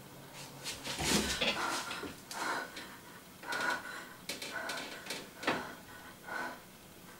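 A woman breathing hard and sobbing in irregular gasps, about eight bursts starting about a second in.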